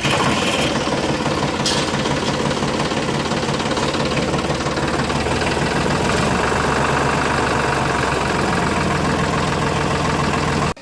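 Small motor of a homemade miniature tractor-driven flour mill running steadily at constant speed, with a dense, even mechanical whirr.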